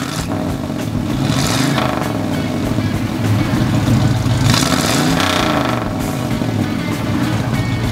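1967 Chevrolet Camaro SS350's 350 V8 running while the car stands still, revved twice: the engine note climbs and falls about a second and a half in, then again around four and a half to five seconds in.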